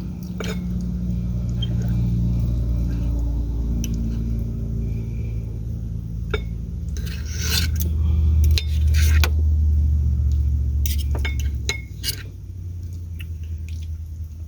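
Knife and fork scraping and clicking against a plate as chicken is cut into smaller pieces, over a steady low rumble that swells in the middle.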